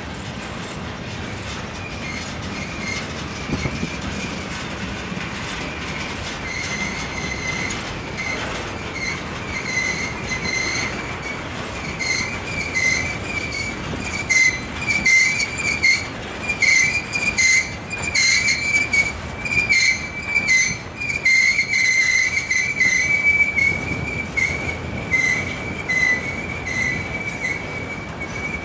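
Freight train cars rolling past with a steady, high-pitched wheel squeal that wavers throughout. From about halfway, rapid clicking and knocking of wheels over the rail joints grows louder.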